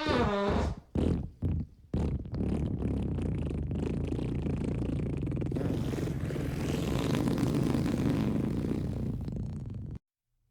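Fart sound effects: a short squeaky fart falling in pitch, two brief sputters, then one long low, rattling fart of about eight seconds that cuts off suddenly.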